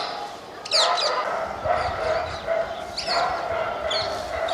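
Parrots calling: short, shrill squawks that swoop in pitch, about a second in, around three seconds and again near four seconds, over a steady chatter of many birds.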